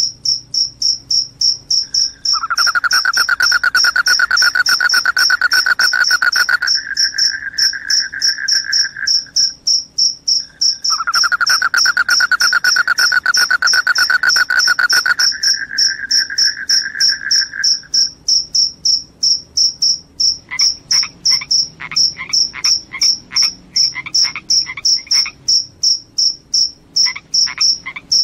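Crickets chirping steadily in a fast, high-pitched pulse. Twice a long, lower trill joins in for several seconds at a time, and in the last third short croaking calls repeat about twice a second.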